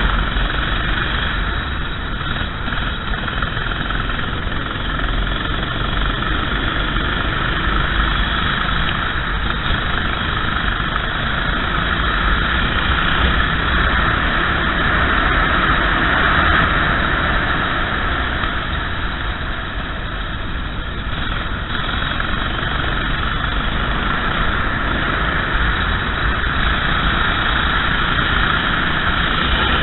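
Racing kart engine running continuously at speed, its note swelling and easing slightly.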